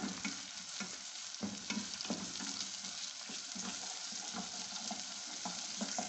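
Chopped onion and capsicum sizzling in hot oil in a small nonstick pan, with a steady hiss. A spoon stirring them scrapes and knocks against the pan over and over.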